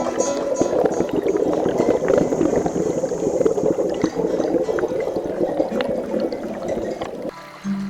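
River water gurgling and bubbling over rocks, a dense splashing babble that drops away suddenly near the end.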